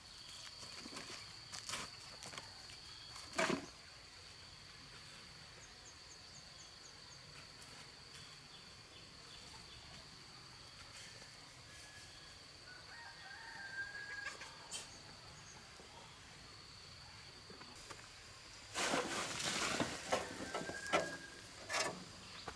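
Farmyard chickens, with a rooster crowing and hens clucking faintly, over a thin steady high whine. A louder, rougher stretch of noise comes in near the end and lasts a few seconds.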